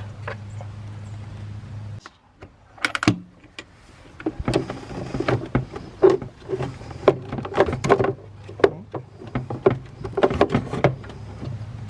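Plastic engine air filter housing being handled and pulled apart: an irregular run of clicks, knocks and rattles from clips and plastic parts. A steady low hum stops abruptly about two seconds in.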